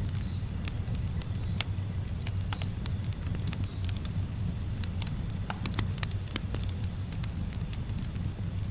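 Campfire burning, with a steady low rumble and irregular sharp crackles and pops from the burning wood.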